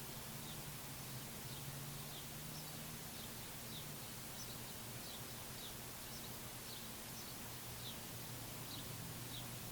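Small songbirds giving short, high chirps, many times and irregularly, each sliding quickly downward, over an even background hiss and a steady low hum.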